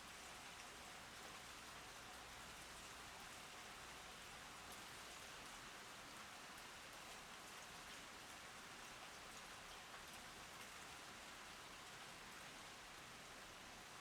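Faint, steady rain falling, an even hiss with scattered ticks of individual drops striking.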